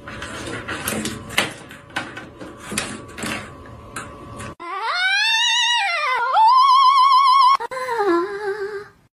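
Light, irregular taps and knocks, then from about halfway a long high-pitched whine that swoops up and down, wavers, and drops lower near the end; the whine is the loudest sound.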